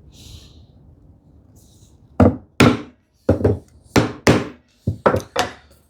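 A chisel struck with a mallet, chopping the wall of a housing dado in wood: about nine sharp knocks, mostly in quick pairs, starting about two seconds in.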